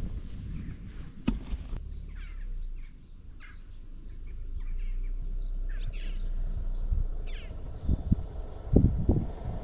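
Birds calling outdoors: a run of short, quick, falling calls from about two seconds in, over a steady low rumble, with a couple of low thumps near the end.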